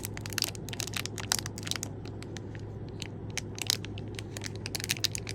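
Packaging being handled and unwrapped, crinkling and crackling in quick irregular clicks.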